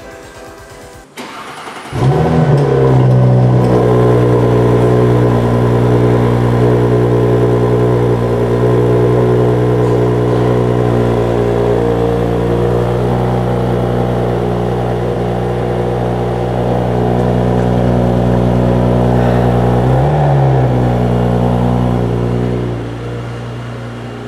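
2018 Audi S5 Sportback's 3.0-litre turbocharged V6 petrol engine starting about two seconds in with a quick flare of revs, then settling into a steady idle at the quad exhaust tips. About 20 seconds in the revs flare briefly again, and near the end the idle turns quieter.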